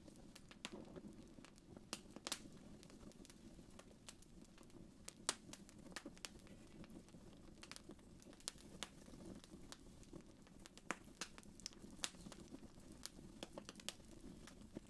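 Wood fire crackling faintly: irregular sharp pops and snaps over a soft, steady low rush.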